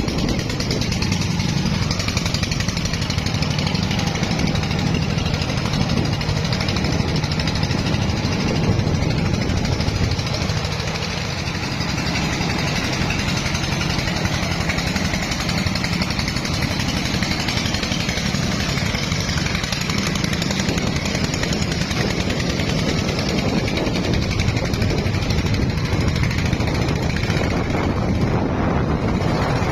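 Single-cylinder diesel engine of a công nông farm truck running steadily, with a dense mechanical chugging that dips slightly about ten seconds in.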